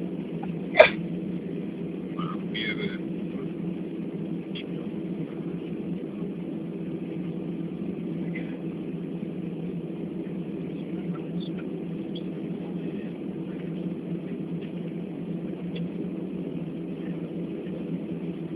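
Steady low hum of an airliner's cabin after landing, from the engines and air conditioning. A single sharp click sounds about a second in, and faint passenger voices come through.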